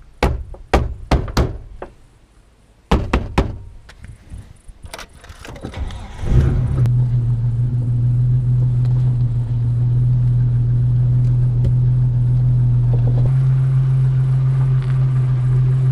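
A run of sharp knocks and thuds in the first few seconds, then an old four-wheel drive's engine starts about six seconds in and settles into a steady idle with a low hum.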